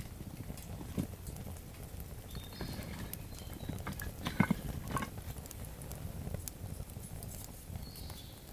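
Newly lit wood campfire crackling, with irregular snaps and pops; the sharpest pop comes about four and a half seconds in.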